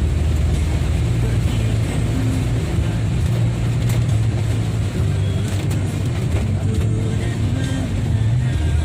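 Road traffic and heavy rain making a steady wash of noise, with music that has a deep, stepping bass line playing over it.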